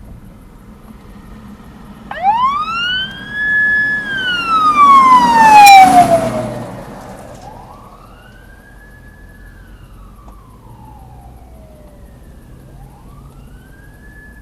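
Fire truck siren wailing, sliding up in pitch, holding, then sliding down in slow cycles. The first wail, about two seconds in, is loud as the truck passes close, with a sharp crack at its loudest point. Two fainter wails follow as it moves away.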